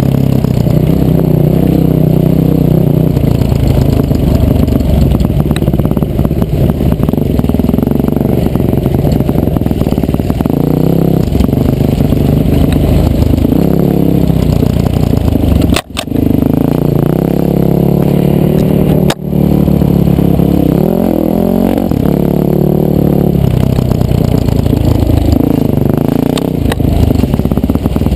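Yamaha off-road motorcycle's single-cylinder engine running on a trail ride, its revs rising and falling over and over as the rider works the throttle. About halfway through, the sound cuts out for an instant twice.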